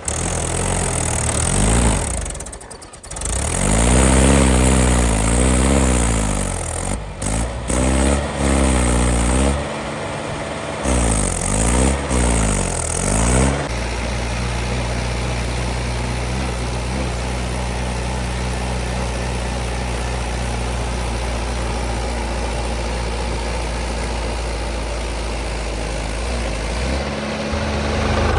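Tractor engine repeatedly revving up and falling back, cut off abruptly a few times, then running steadily at constant speed for the second half.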